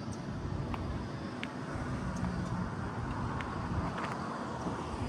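A vehicle engine running steadily as a low hum, with a few faint clicks.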